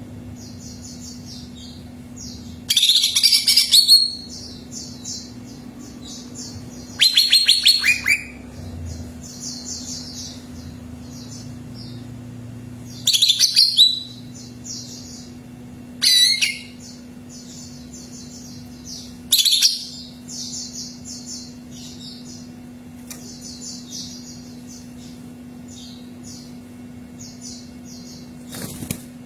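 Cucak ijo (leafbird) singing: loud, high bursts of song every few seconds, with a fast run of short, chattering notes between them. A steady low hum lies underneath.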